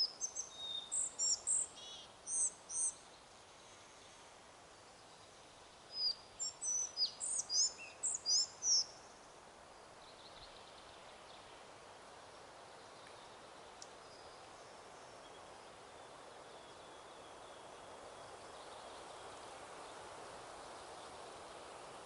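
A songbird sings two rapid runs of high chirps, each about three seconds long, over a steady wind hiss that swells slightly toward the end.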